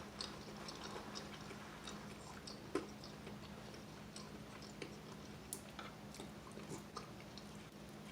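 Faint chewing of crispy fried chicken wings, with scattered small crunches and one sharper crunch about three seconds in.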